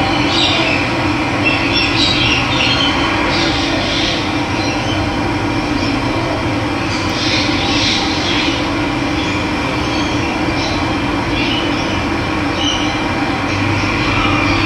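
Steady rush of running water with birds chirping over it in short bursts several times.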